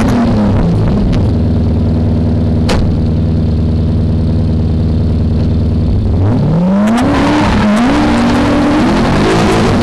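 V8 engine of a BMW E30 drift car holding steady low revs for several seconds, with a sharp click near the middle. About six seconds in it revs up and accelerates, its pitch climbing and shifting up and down.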